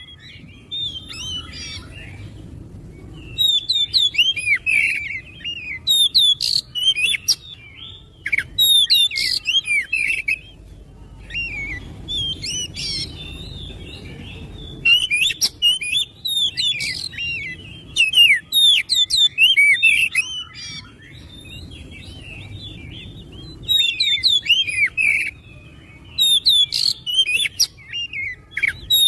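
Oriental magpie-robin (kacer) singing a loud, fast, varied song of sharp chirps and whistles, delivered in bursts of a few seconds with short pauses between.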